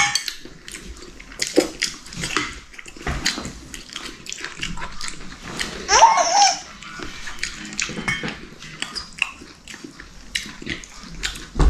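Eating sounds close to the microphone: chewing and slurping, with light clicks of chopsticks and dishes. About six seconds in comes one short whine that bends up and down.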